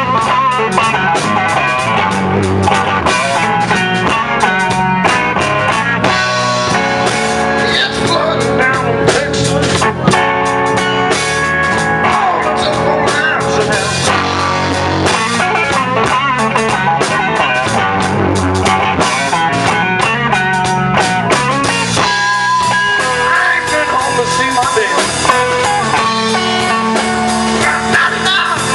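Blues band playing a slow blues instrumental passage: guitar lines over drum kit and bass, with no singing.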